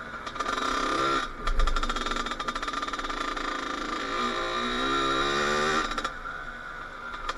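Kawasaki KX80 two-stroke dirt bike engine running and revving, its pitch rising between about four and six seconds in, then easing off briefly near the end. A short thump comes about a second and a half in.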